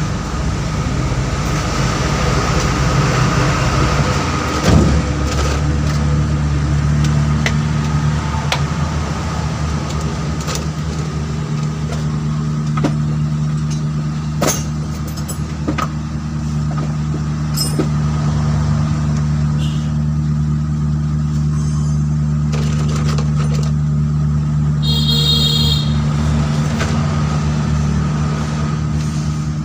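Motor vehicle engine idling steadily, with scattered metallic clicks and a knock about five seconds in. A brief high pulsing tone sounds near the end.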